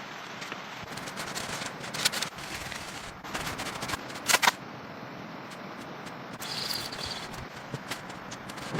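A few sharp knocks over a steady background hiss, the loudest a double knock just past the middle. A brief high chirp comes about two-thirds of the way in.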